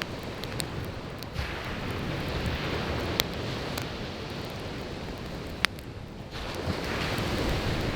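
Surf washing on a beach, the rush swelling twice, with a wood campfire's crackle: a few sharp pops scattered through it, the strongest about three seconds in and again past five seconds.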